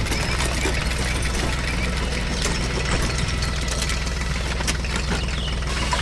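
A heavy construction vehicle's engine running steadily at idle: an even low rumble with a fast, fine chatter over it.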